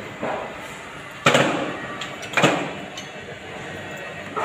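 Sharp metal clanks: a light knock, then two loud strikes about a second apart, each ringing briefly, as steel tools or parts strike metal.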